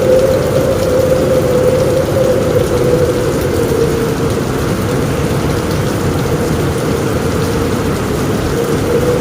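Heavy rain falling steadily on a roof, a loud even rush with no break and no single strikes.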